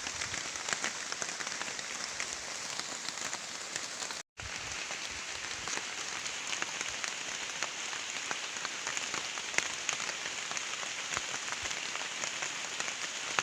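Steady rain falling, with many separate drops ticking. The sound cuts out for a moment about four seconds in.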